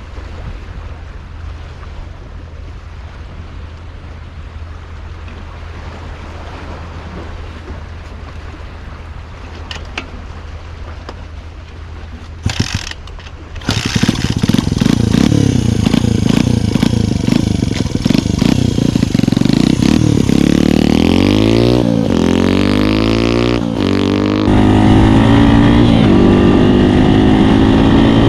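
Honda Ape single-cylinder four-stroke with a Kitaco 82cc bore-up kit, running low and steady at first. A few clicks follow, then from about fourteen seconds in it is much louder, at full throttle. Its pitch rises again and again as it accelerates up through the gears.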